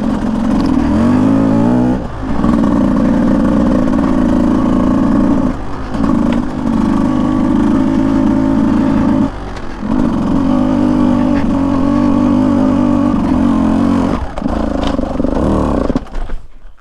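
Beta 200 two-stroke dirt bike engine running under throttle on a trail, its pitch rising about a second in and dipping briefly several times as the throttle is eased and opened again. The engine note drops away sharply near the end.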